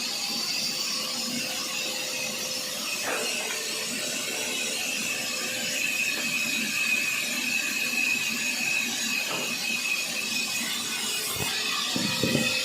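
Sawmill saw running and cutting through wood, with a steady high whine through the middle.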